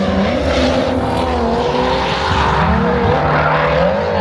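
A car drifting: its engine revving, pitch rising and falling, over a steady tire squeal.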